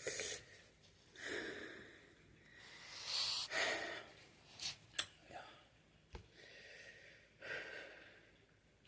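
A person breathing out hard through the mouth in about four long, breathy exhales, from the burn of spicy Buldak noodles. A few short, sharp clicks come in the middle.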